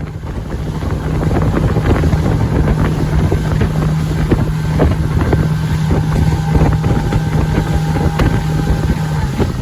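Motorboat engine running under way, a steady low drone under the rush of wind on the microphone and water. The engine note drops slightly near the end as the boat eases off.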